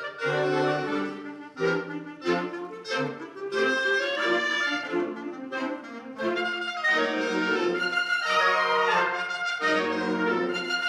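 Concert band playing, brass to the fore, with short accented chords early and fuller held chords and falling runs later.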